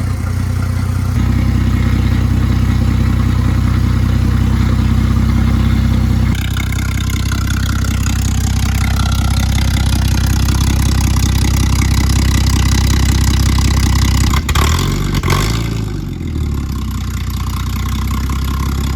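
Ford AU Falcon's 4.0-litre inline-six idling smoothly through its loud dual-tailpipe exhaust. The owner finds this exhaust note not very nice. About fifteen seconds in, the engine is blipped briefly and falls back to idle.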